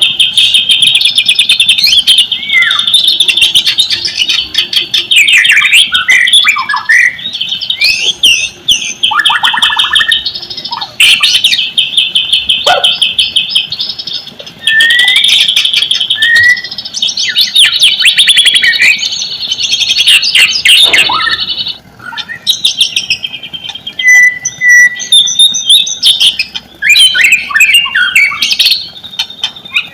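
White-rumped shama (murai batu) singing a loud, almost unbroken song of fast rattling trills, swooping whistles and sharp chips, with only brief pauses.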